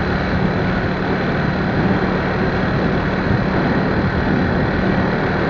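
Steady vehicle noise: an engine running evenly, with a constant low hum under a broad rushing noise.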